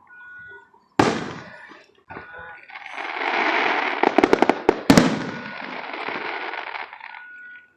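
Fireworks going off: a single loud bang about a second in, then a long hissing, crackling wash with a quick string of sharp cracks in the middle.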